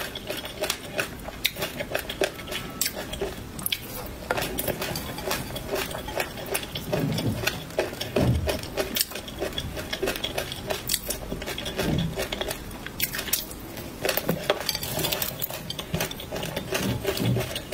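Close-up chewing of crunchy peanuts in sauce and pickled Laba garlic: a dense run of small crackles and clicks. A plastic spoon scrapes and taps the plate as the last of the food is gathered up.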